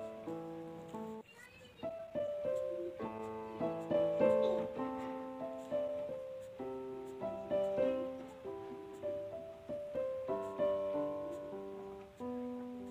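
Background piano music: a gentle melody of single notes and chords, each fading after it is struck, with a short pause about a second in.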